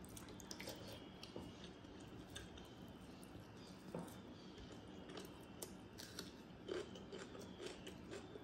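Faint chewing and wet mouth sounds of someone eating soaked water rice by hand, with small clicks and a couple of sharper smacks about four and seven seconds in, and fingers squishing in the watery rice.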